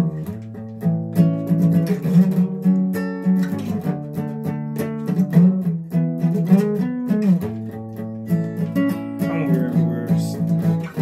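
Guitar being played: plucked notes and chords ringing on, with a few bent notes about six to seven seconds in.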